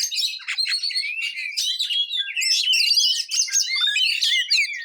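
Oriental magpie-robin (kacer) singing a continuous, rapid, varied song of chirps, whistles and trills with hardly a pause, the fast rolling 'roll tembak' style that kacer keepers prize.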